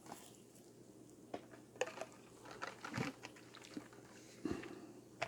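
Scattered light clicks and knocks from handling small die-cast toy trucks, with a few louder taps about two, three and four and a half seconds in.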